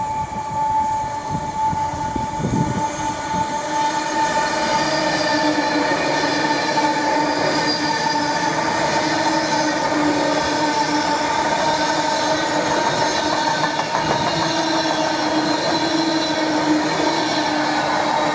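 Virgin Trains Class 390 Pendolino electric train passing at speed. The sound builds over the first few seconds as it approaches, then holds steady as the carriages go by: rushing air and wheel noise with a whining tone running through it.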